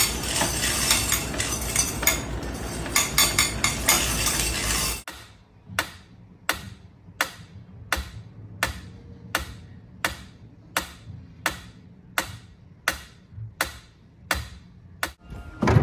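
A dense clatter, then from about five seconds in a very even series of sharp taps or knocks, about one and a half a second, each ringing briefly.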